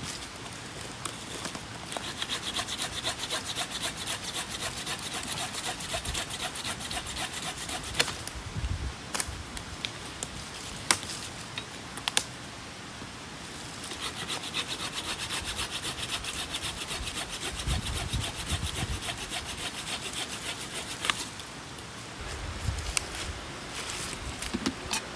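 Saw cutting through wood in fast back-and-forth strokes, in two runs of several seconds each, with a few sharp knocks in the pause between them.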